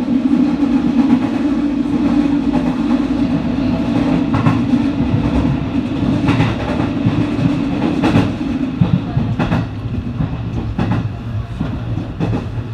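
Electric commuter train running at about 60–65 km/h, heard from inside the car: a steady rumble with a low hum that fades about halfway. In the second half the wheels click over rail joints about every second and a half.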